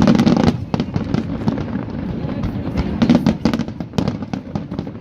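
Aerial fireworks bursting: a rapid string of sharp bangs and crackles, with heavier booming bursts right at the start and again about three seconds in.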